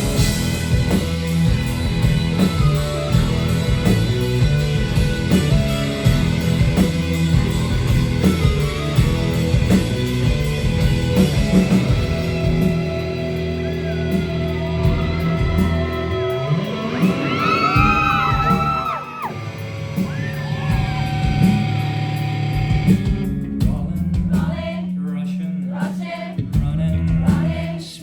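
Rock band playing live with a singer, drums, bass and guitars heard in a concert hall. Partway through a voice slides up and down in pitch over the band, and near the end the music thins out to a sparser passage.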